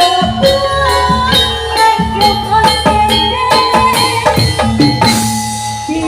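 Loud live music from a kuda lumping troupe's ensemble over a sound system: drums and rattling percussion under several melodic instruments, playing without a break.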